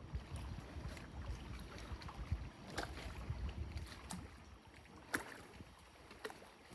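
Canoe being paddled: quiet paddle strokes in the water, with a few sharp knocks or splashes, over a low rumble.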